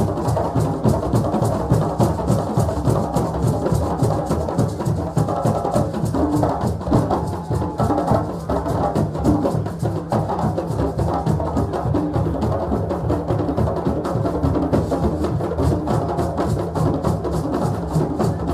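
West African drum ensemble playing a fast, steady, unbroken rhythm of many dense strokes.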